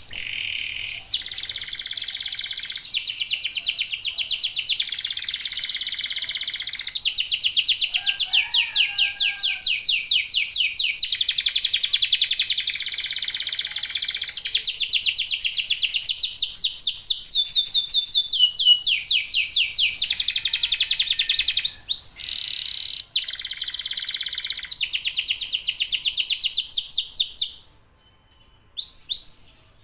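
Domestic canaries singing together in long, fast trills and rolling phrases, several songs overlapping. The singing stops abruptly about 27 seconds in, and a few short chirps follow.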